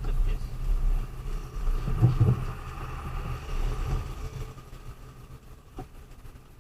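Low rumble of a motor vehicle's engine and road noise, growing clearly quieter in the last couple of seconds.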